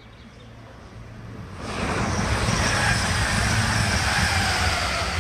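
Express passenger train passing through a level crossing at speed: the noise builds quickly to a loud rush of wheels and air about a second and a half in and stays loud. A faint whine falls slowly in pitch as it goes by.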